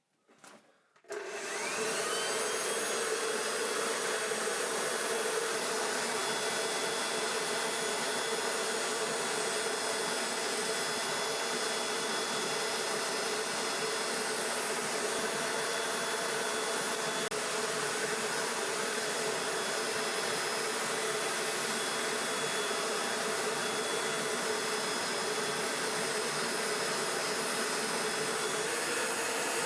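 Electric forge blower switched on about a second in, its whine rising as the motor spins up, then running steadily with an even rushing of air.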